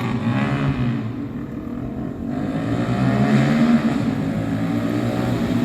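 Honda Grom's single-cylinder engine running through straight pipes, with a blunt, rasping exhaust note. Its revs sag a little about two seconds in, then rise again about three seconds in.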